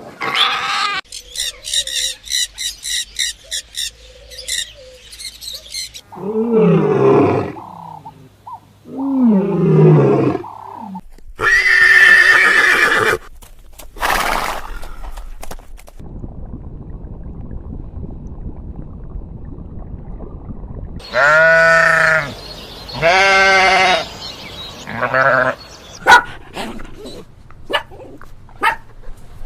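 A string of different animal calls edited one after another: rapid pulsing calls at first, then low calls falling in pitch, and later a series of farm-animal-like calls.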